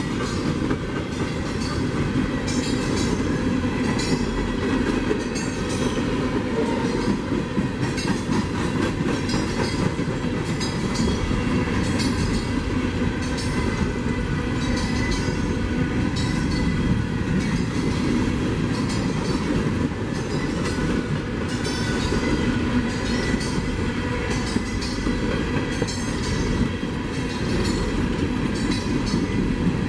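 Railroad cars rolling past, their wheels clacking in a steady, repeating rhythm over the rail joints beneath a continuous rumble.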